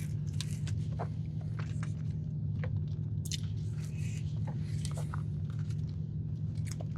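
Close-up chewing of a bite of cookies and cream cheesecake with its cookie crust: scattered short mouth clicks and smacks, over a steady low hum.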